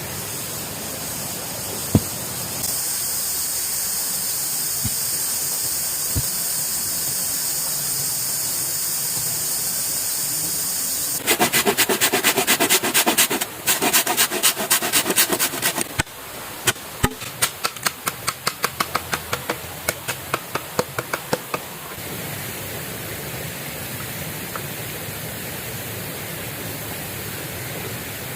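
Steady rushing of a river, with a high hiss joining about three seconds in. Near the middle come about five seconds of rapid dense strokes, then sharp ticks about three a second for several seconds, typical of hand work on bamboo.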